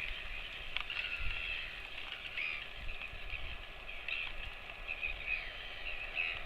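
Birds chirping steadily, many short high calls overlapping, with a faint low rumble underneath.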